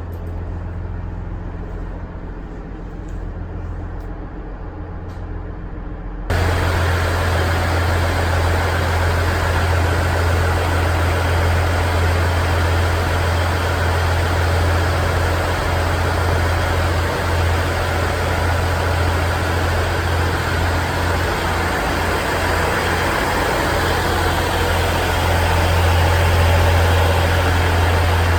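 KiHa 110 series diesel railcar's engine running steadily, a deep low drone. About six seconds in the sound abruptly turns louder and brighter, as at an edit.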